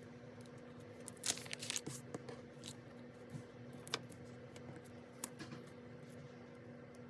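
Paper and stationery being handled while decorating a planner: a short tearing rustle about a second in, then a few sharp light clicks, over a faint steady hum.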